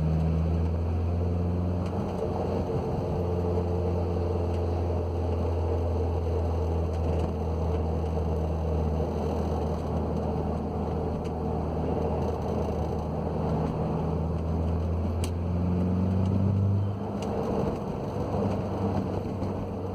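Audi B6 A4 with a 6-speed manual driving, heard from inside the car: a steady low hum from the engine and drivetrain, which drops in level about three-quarters of the way through. The owner says the transmission has started whirring off throttle and doubts that a fluid change will cure it.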